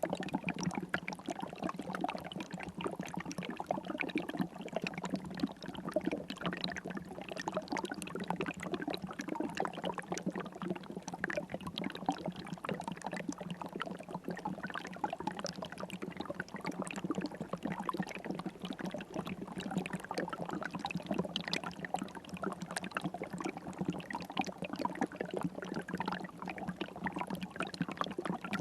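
River water flowing steadily, a dense, even patter of small splashes and gurgles.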